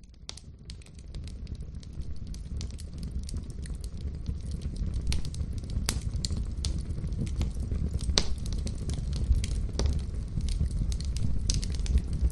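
Wood fire crackling in a fireplace: a steady low rumble of flames with irregular sharp pops and snaps, fading in over the first couple of seconds.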